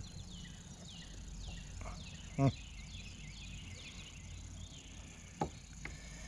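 Chirping of birds in the background: many short, falling whistles, several a second. A short voice-like grunt about two and a half seconds in, and a sharp knock near the end.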